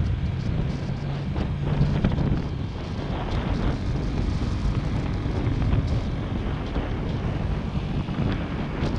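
Motorcycle engine running steadily while riding, with wind buffeting the camera microphone.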